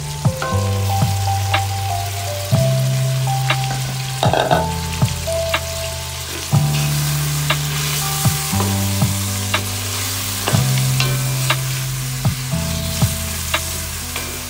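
Fish and crabs frying in oily sauce in a metal pot, sizzling, while a wooden spoon stirs and clicks against the pot. Background music with a slow bass line plays under it.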